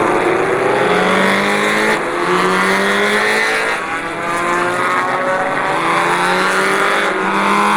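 Motorcycle engine accelerating through the gears: its pitch climbs, drops back at a gear change about two seconds in, again near four seconds and again about seven seconds in, then climbs once more.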